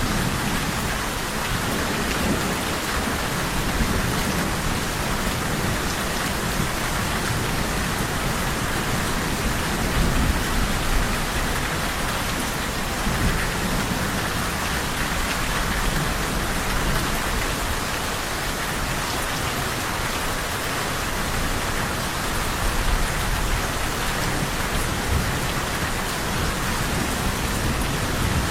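Steady rain falling, with a low rumble of thunder underneath that swells a little a couple of times.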